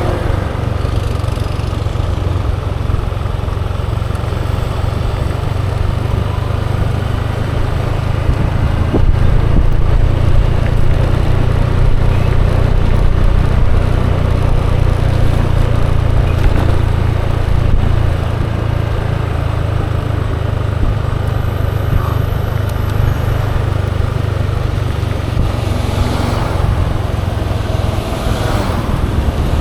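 Ride noise from a moving Yamaha Aerox 155 scooter: a steady deep rumble of wind on the microphone over the scooter's running engine, louder for several seconds in the middle, with other traffic passing near the end.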